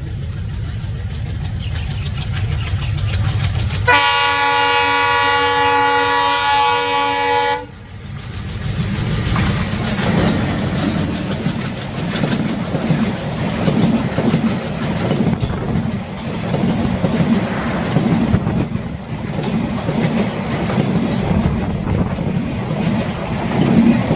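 Bangladesh Railway diesel locomotive of the Benapole Express approaching with a low engine rumble, then sounding a loud multi-tone horn for about three and a half seconds that stops abruptly. The passenger coaches then rush past with steady rhythmic wheel clatter over the rail joints.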